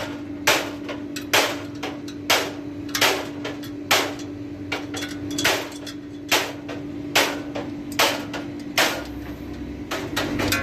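Hammer blows struck at a steady pace, roughly one every 0.8 seconds, each a sharp knock, over a steady low hum.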